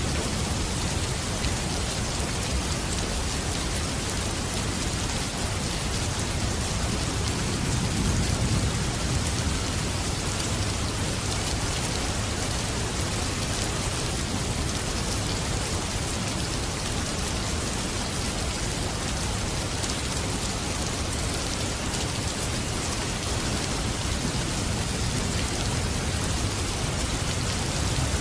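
Steady rain falling, an even hiss of drops on surfaces, with a low rumble swelling briefly about eight seconds in.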